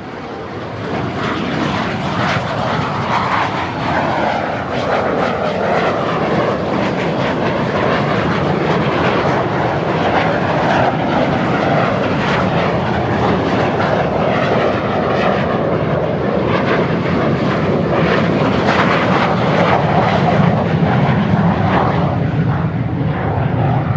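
Kawasaki T-4 jets' turbofan engines at takeoff power as the aircraft roll and lift off one after another. A loud, steady jet noise that builds over the first couple of seconds.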